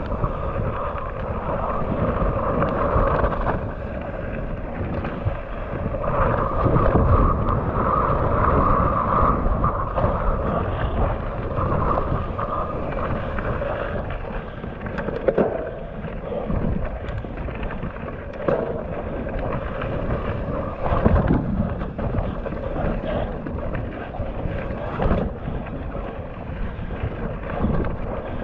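Mountain bike descending a wet trail: wind buffeting the action camera's microphone over tyre noise and the rattle and knocks of the bike over bumps.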